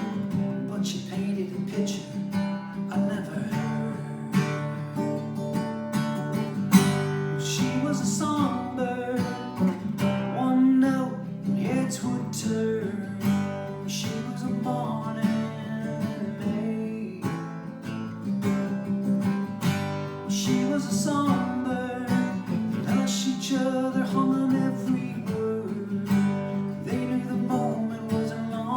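Acoustic guitar playing an instrumental passage of a folk song: steady strummed chords with picked melody notes above them.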